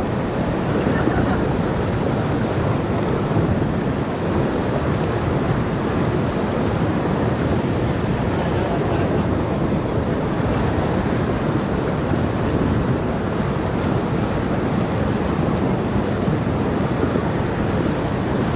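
Rushing whitewater of a river rapid heard from a raft: a steady, unbroken rush of water.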